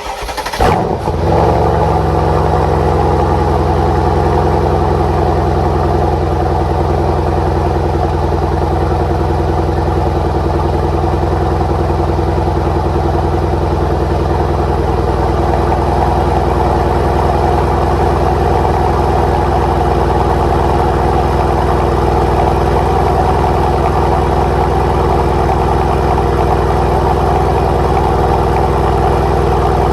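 Mercedes-AMG C63 S (W205) 4.0-litre twin-turbo V8 cold start with the exhaust in Comfort mode: the engine catches and flares loudly about a second in, then settles into a steady cold idle.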